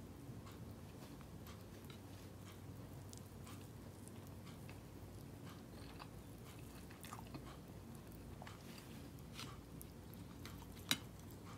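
Faint chewing and small clicks of someone eating chicken and rice by hand, over a low steady hum. One sharp click just before the end is the loudest sound.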